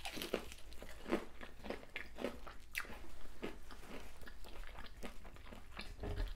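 A person biting into and chewing fried, hot Cheetos-crusted food, with many small irregular crunches.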